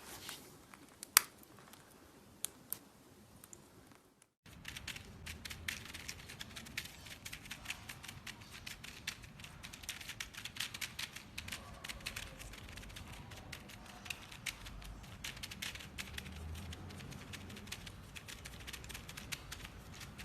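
A small parrot nibbling and chewing with its beak: scattered sharp clicks, then a long run of rapid dry clicks and crackles.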